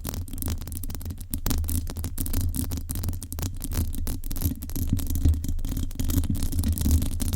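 Fingers scratching directly on a microphone: a continuous, fast, crackly scratching made of many tiny irregular clicks over a heavy low rumble.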